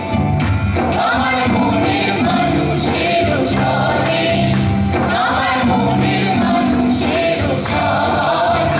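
Live folk song: singing voices carry a melody over steady sustained instrumental notes, with regular percussion strokes.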